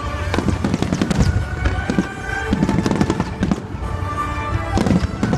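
Aerial firework shells bursting over the water in quick succession: a dense, irregular run of loud bangs and crackles.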